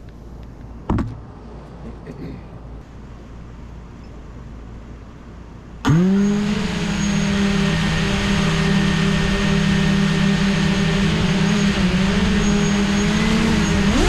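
5-inch FPV freestyle quad's brushless motors and propellers: a sharp click about a second in, then about six seconds in the motors spool up with a quick rising whine and hold a steady idle hum before the pitch climbs again near the end as the throttle comes up.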